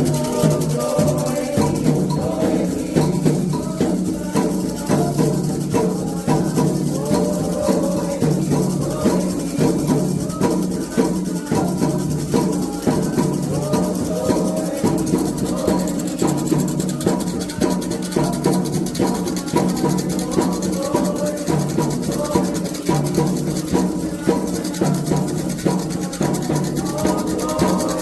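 Candomblé ritual music: hand drums and shaker-type percussion playing a steady, fast rhythm, with voices singing underneath.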